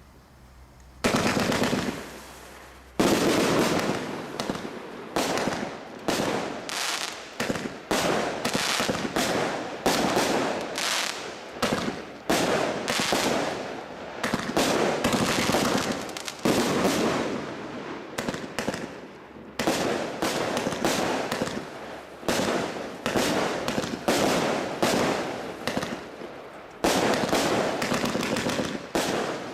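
Panda Feuerwerk Monster 2 consumer firework compound firing: a rapid run of launch thuds and aerial bursts, each bang fading off, with short lulls between volleys. It starts about a second in.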